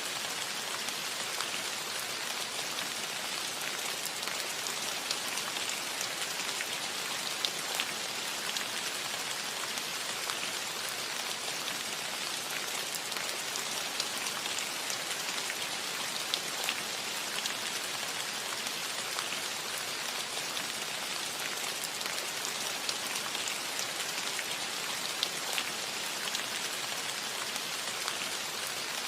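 Steady light rain falling on a metal roof, an even patter with individual drops ticking sharply on the metal here and there.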